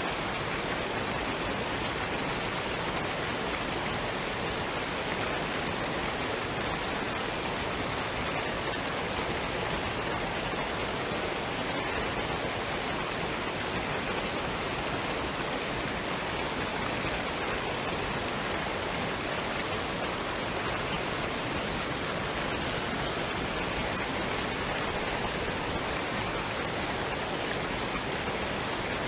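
Waterfall and stream: a steady, unbroken rush of running water.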